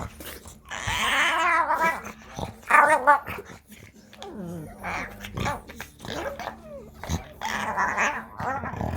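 French bulldogs play-fighting mouth to mouth, making wavering growls and whiny, yippy vocalisations in repeated bursts, loudest a few seconds in and again near the end.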